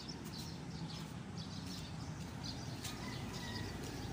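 Outdoor background noise with faint, scattered bird chirps over a low steady hum.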